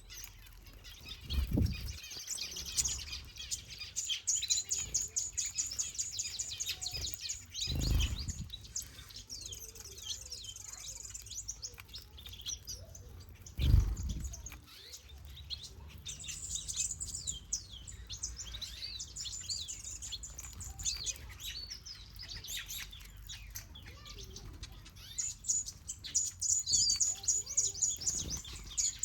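Aviary finches and softbills chirping and twittering in quick, high runs that come and go. Three dull low thumps come through them: near the start, about eight seconds in, and about fourteen seconds in. The last thump is the loudest.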